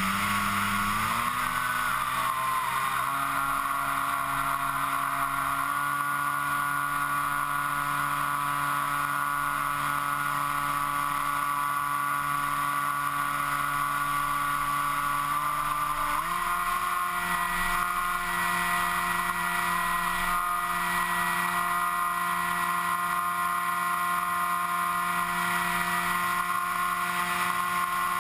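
FPV model aircraft's motor and propeller running at steady throttle, heard from on board with wind hiss. The pitch dips at the start, climbs back over the next couple of seconds, and steps up suddenly a little past the middle as the throttle is opened.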